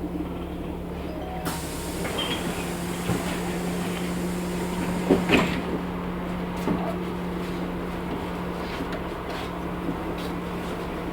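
Inside a LiAZ 6213.65 articulated city bus under way: a steady low engine hum with the ride's rattles. About a second and a half in, a hiss starts and lasts several seconds, and a couple of knocks from the cabin come around the middle.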